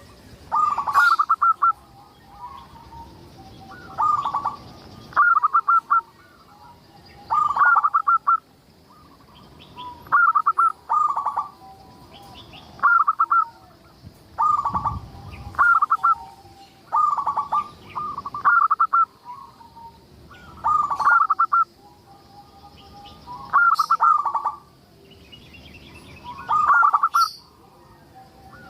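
Zebra dove (perkutut) cooing: its rapid, staccato, stuttering coo phrase repeats every second or two, sometimes in quick doubles.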